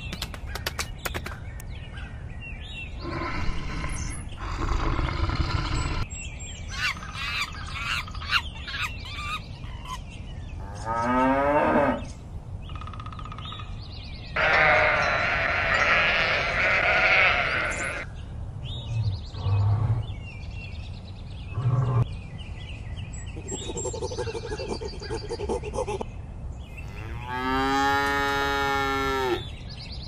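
A run of separate farm-animal calls one after another, with a flock of sheep bleating together about halfway through and a long drawn-out call near the end.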